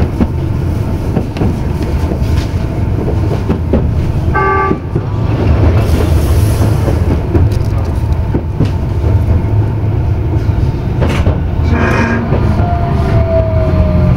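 Tokyu Setagaya Line tram running along the track: a steady, loud low rumble from wheels and motors, with occasional clicks.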